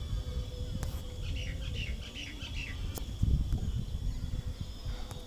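Bird chirps in the background, a short run of them between about one and two seconds in, over a low steady rumble.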